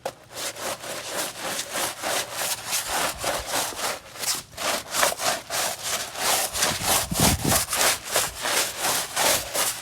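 Stiff brush scrubbing soapy water into a car floor mat, back-and-forth strokes at about three or four a second.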